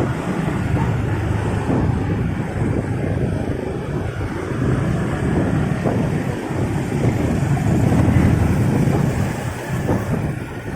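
Motorcycle under way in busy traffic: its engine and the surrounding vehicles make a steady low rumble mixed with wind noise on the microphone. It grows louder around eight seconds in.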